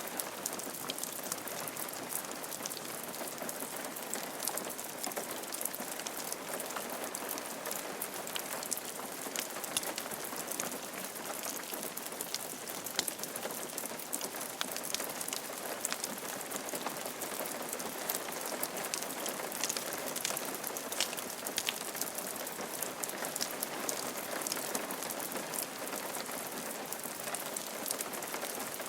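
Steady rain falling on a roof: an even hiss of rainfall with many separate sharp drop ticks throughout.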